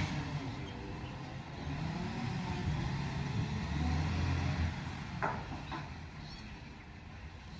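Heavy truck engine running, its pitch rising and falling, then dying away over the last couple of seconds, with a sharp knock about five seconds in.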